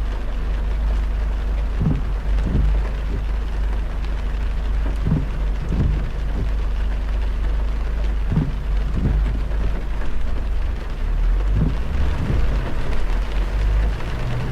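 Heavy rain on a moving car with a steady low road rumble. Pairs of short low thumps repeat about every three seconds.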